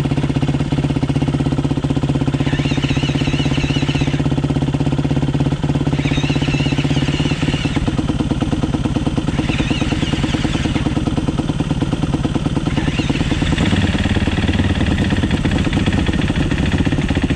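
Four-stroke dirt bike engine idling steadily as it warms up from a cold start, while a second, fuel-injected four-stroke dirt bike is cranked on its electric starter, without the cold-start, in four spells of whining, the last one longer.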